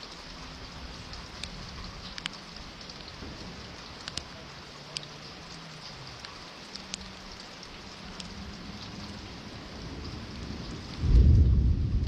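Steady rain falling, with scattered sharp taps of drops. About eleven seconds in, a sudden loud, low rumble of thunder breaks in.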